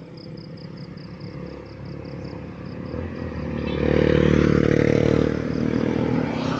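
A motor vehicle approaching and passing, its engine growing louder and loudest about four to five seconds in. Insects chirp in steady high pulses underneath during the first few seconds.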